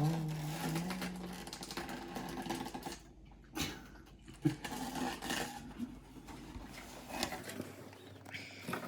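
LEGO set box and packaging being handled, with irregular rattling, clicking and rustling. A short pitched tone that steps up once is heard in the first second or so.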